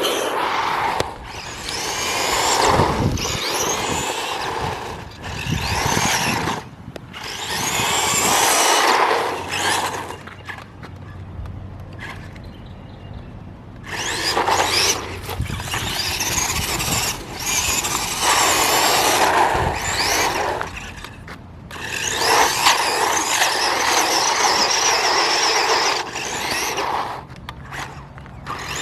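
Electric RC car driving in repeated runs of a few seconds each, its motor whine rising and falling as it speeds up and slows, with tyre noise on the ground; quieter gaps between runs, the longest about ten seconds in.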